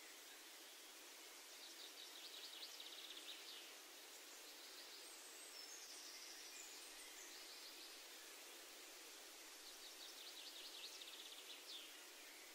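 Faint outdoor birdsong over a steady hiss: a small songbird's rapid trill sounds twice, several seconds apart, with a few higher notes in between.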